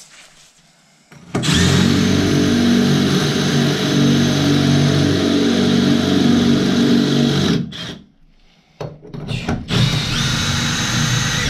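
Electric drill running at speed for about six seconds, then stopped and restarted in a few short bursts near the end.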